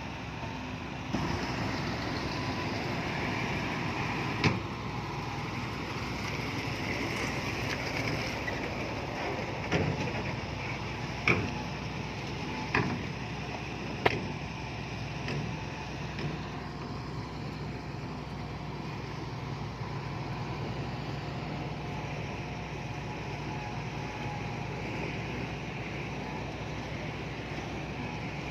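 Heavy earthmoving machinery running steadily with a diesel engine hum, with about five sharp clanks between roughly four and fourteen seconds in.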